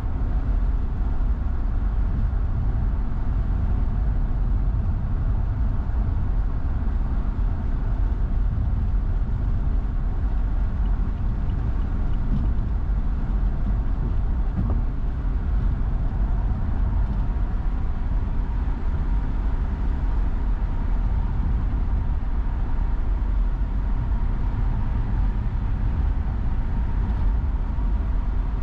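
Car driving at steady speed, heard from inside the cabin: an even low rumble of tyres and engine with no change in level.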